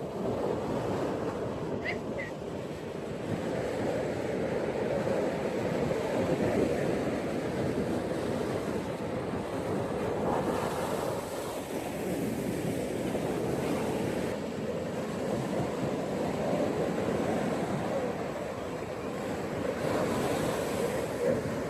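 Ocean waves washing onto a beach, a steady surf rush that swells and eases over several seconds, with stronger surges about halfway through and near the end.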